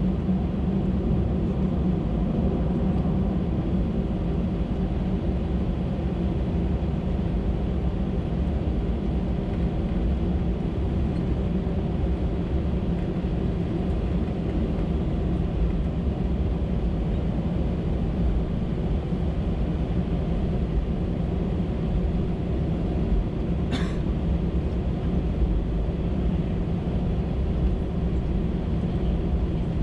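Steady cabin rumble of an Airbus A319-112 on the ground, a constant low hum over broad low noise, with one short sharp click about 24 seconds in.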